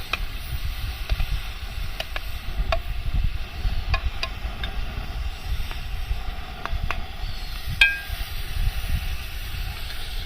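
Wood campfire under a cooking pot, with scattered sharp crackling pops over a steady low rumble of wind on the microphone. A single metallic clink rings briefly about eight seconds in.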